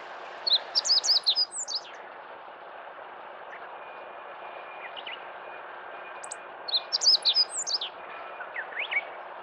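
Meadow bunting singing: two short, quick phrases of high chirping notes, about six seconds apart, over a steady background hiss.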